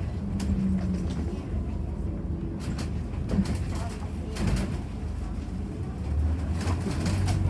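Ethanol-engined Scania Citywide city bus with ZF automatic gearbox running, a steady low drone with scattered clicks and rattles; the drone grows louder about six seconds in.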